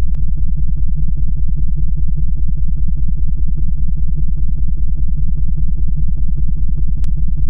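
Synthesized frequency-healing drone: a deep, steady bass hum that pulses evenly several times a second, with fainter overtones pulsing above it.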